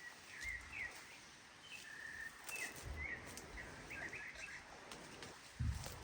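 A small bird chirping in a run of short, high notes, with a few faint clicks and a louder low thump near the end.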